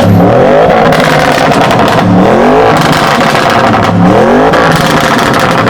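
Audi RS7 Sportback's twin-turbo V8 accelerating hard, its loud exhaust note rising in pitch three times about two seconds apart.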